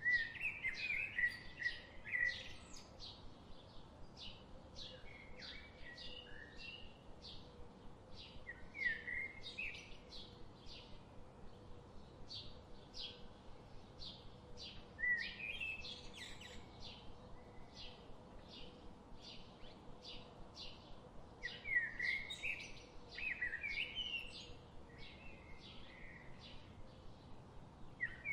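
Songbirds in a forest: one bird repeats a short high chirp about twice a second, while another breaks in now and then with louder warbling phrases that slide up and down.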